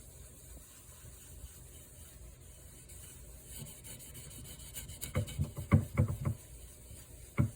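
Gloved hand rubbing mineral oil over a wooden charcuterie board, a soft wiping sound. In the second half come a quick run of about five low thumps in just over a second, and one more near the end.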